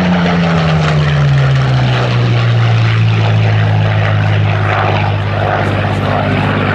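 Supermarine Spitfire IX's Rolls-Royce Merlin V12 engine running loud as the aircraft flies past. Its pitch falls over the first two seconds, then holds steady.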